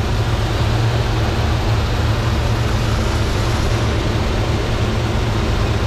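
1966 Ford Mustang's 289 V8 idling steadily and evenly, still cold just after a cold start on its automatic choke; nice and quiet.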